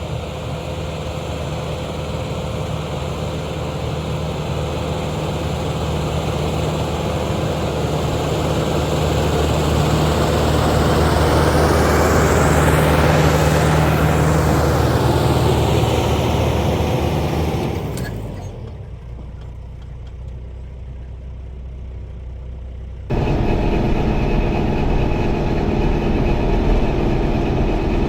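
Tractor engine running under load with a rotary tiller, growing louder as it passes close by about halfway through, then fading away. Near the end the sound cuts abruptly to a closer, steady engine.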